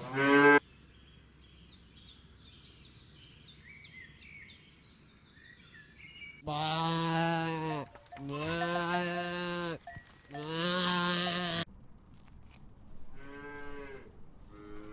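Cow mooing: a short call at the start, then three long moos one after another about halfway through, and a fainter moo near the end. Faint high ticking between the calls.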